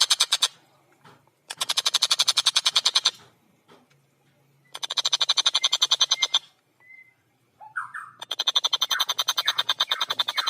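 A tengkek buto kingfisher calling in rapid chattering rattles of about a dozen notes a second, four bouts with short pauses between them. A short lower gliding note comes just before the last bout.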